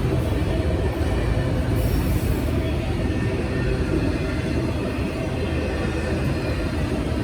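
Freight train passing close by: a steady rumble of wheels and cars rolling on the rails.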